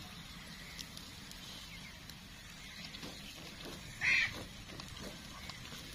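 A short bird call about four seconds in, over a faint steady outdoor background with a few light ticks.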